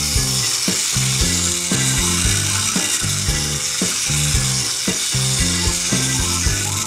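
Continuous whirring hiss of a small toy bus's geared motor as the bus is pushed along a play mat and released to run on its own, over background music with a steady beat.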